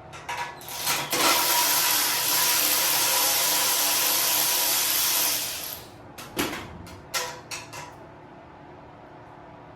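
A handheld power tool runs steadily for about five seconds, with a high hissing whir, while parts come off a minibike during the teardown. A few short metal clanks follow.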